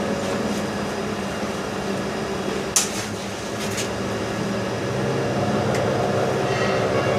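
CNC machine running with a steady hum of several tones, with a sharp click about three seconds in and a lighter one a second later.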